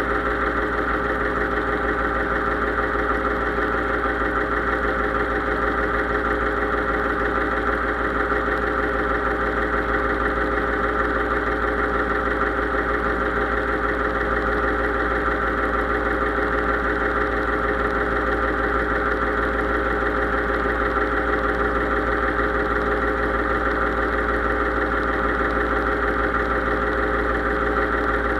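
Case IH 3220 tractor's diesel engine running steadily at an unchanging speed.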